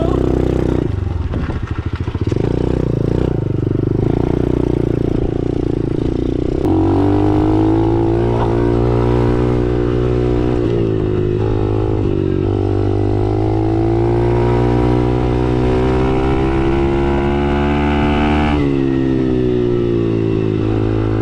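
Dirt bike's small single-cylinder engine running under a rider, its note stepping up about a third of the way in and then rising and falling with the throttle.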